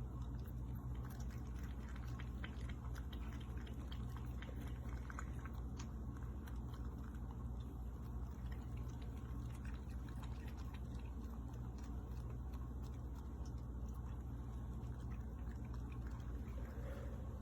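Stainless-steel cat water fountain running: a steady low hum with water trickling and scattered soft, irregular ticks.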